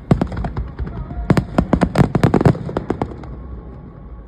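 Fireworks display: aerial shells bursting in quick succession, a dense run of sharp bangs and crackles that thins out after about three seconds.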